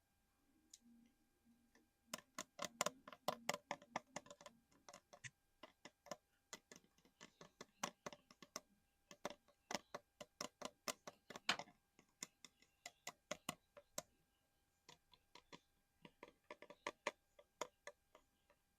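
Quick runs of light, sharp tapping on a small collectible item, several taps a second, coming in bursts with a short pause about two-thirds of the way through.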